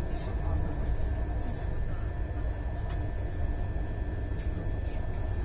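Steady low rumble of a train in motion, heard from inside the carriage, with a few faint high ticks over it.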